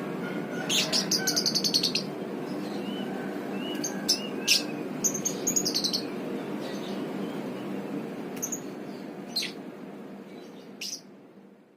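Lovebird giving shrill chirping calls: a fast stuttering run of chirps about a second in, then single sharp chirps and a short chirp series, over a steady low hum, fading out near the end.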